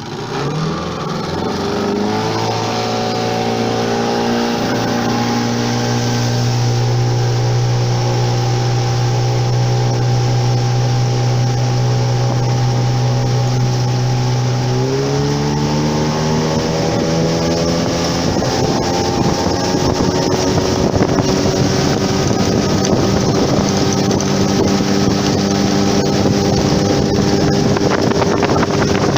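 An engine running under load: it speeds up over the first couple of seconds, holds a steady pitch, then steps up to a higher pitch about halfway through. In the second half the engine tone is mixed with rushing wind noise.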